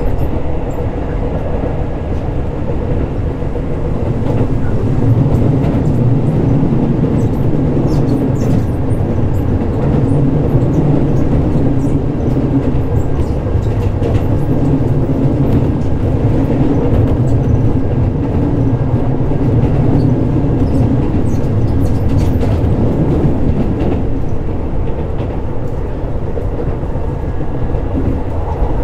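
Keisei 3600 series electric commuter train running, heard from inside the car: a steady rumble of wheels on rail with a few light clicks, growing a little louder about four seconds in.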